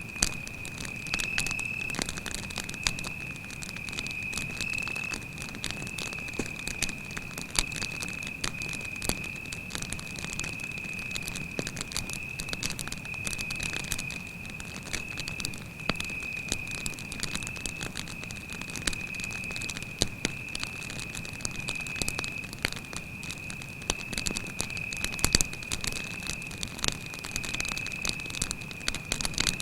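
Campfire crackling, with sharp pops at irregular moments, over a cricket's continuous high-pitched trill.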